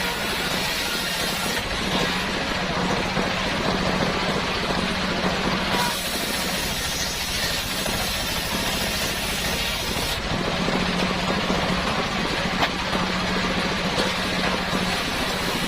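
Homemade circular sawmill running steadily with a low hum while sawing salam wood. Twice, for about four to five seconds each time, the sound changes: the hum grows stronger and the hiss drops away.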